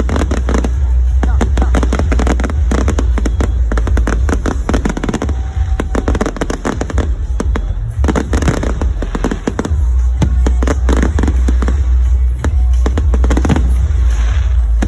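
Fireworks going off in dense, rapid crackling volleys that thin out and build again several times, over a steady low rumble.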